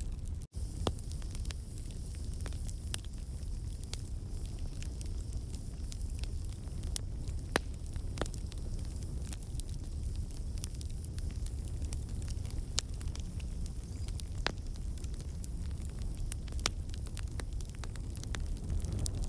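Wood campfire burning: a steady low rumble of flame with scattered sharp crackles and pops from the logs. The sound drops out for a split second about half a second in.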